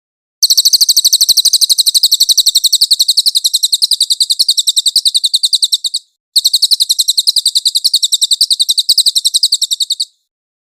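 Cililin songbird singing two long, fast trills of high, sharp, evenly repeated notes. The first lasts about five and a half seconds, and the second starts after a brief break and lasts about four seconds.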